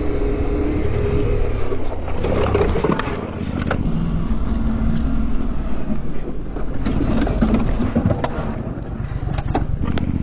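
Motor vehicle engine running with road noise, its pitch changing partway through, with a few sharp knocks.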